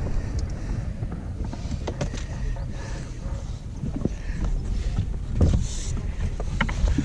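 Low rumble of wind on the microphone aboard a bass boat, with occasional light knocks and clicks.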